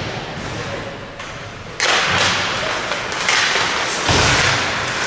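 Ice hockey play on the rink: skates scraping the ice and sticks on the puck, growing suddenly louder about two seconds in. A heavy thud comes about four seconds in, like a body or the puck hitting the boards.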